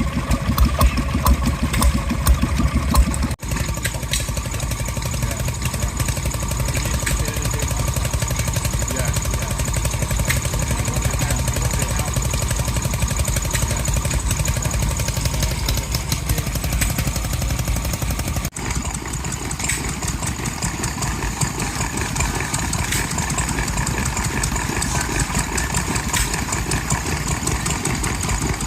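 Vintage stationary engines running steadily, heard in three clips joined by abrupt cuts about three and a half and eighteen and a half seconds in.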